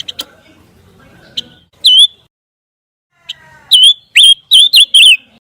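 Recorded song of the bird Indonesian birdkeepers call pancawarna: one sharp chirp that dips in pitch about two seconds in, then a quick run of about five loud chirps near the end.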